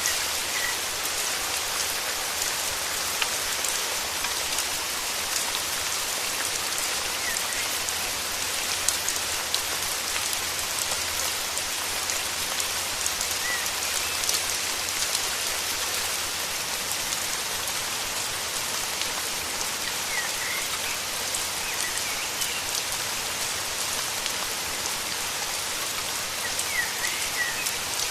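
Steady rain falling, an even hiss of drops, with a few faint, short bird chirps scattered through it.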